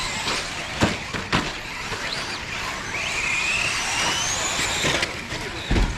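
Electric radio-controlled off-road cars driving on a dirt track, their motors whining and rising in pitch as they accelerate. There are a couple of sharp knocks about a second in and a low thump near the end.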